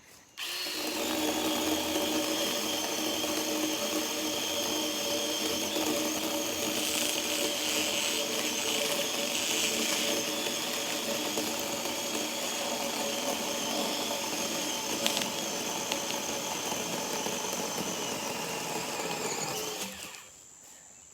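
Chainsaw running steadily while cutting a log in half; it starts about half a second in and cuts out near the end.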